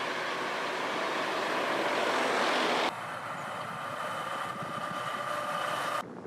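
Loud rushing roar, typical of BM-27 Uragan rockets leaving the launcher in a salvo. It swells and cuts off suddenly about three seconds in, then a steadier rush with a faint whine in it runs on and cuts off again near the end.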